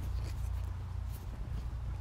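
Faint rustling and scratching handling noise with small scattered ticks, over a steady low rumble.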